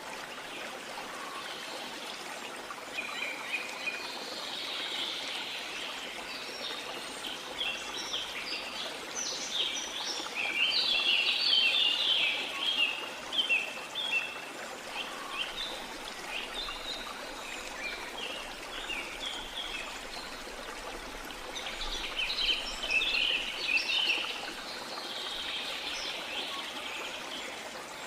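A steady wash of water with small birds chirping and twittering over it. The chirping comes in quick runs of short notes, thickest in a spell a little before the middle and again later on.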